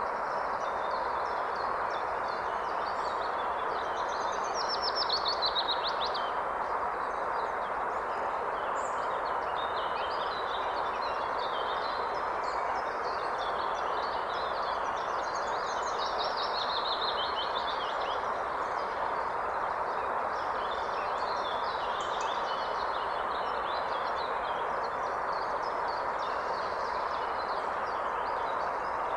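Steady rush of river water with songbirds singing and chirping over it. Quick trilled phrases stand out about five seconds in and again around sixteen seconds.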